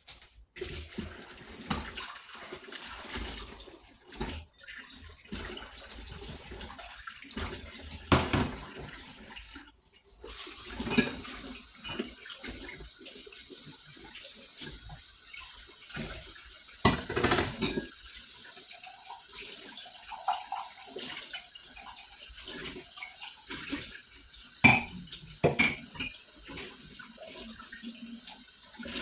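Kitchen tap running into a sink while dishes are washed by hand, with plates and pans knocking and clinking now and then. The running water comes on about a third of the way in, after a stretch of handling noises.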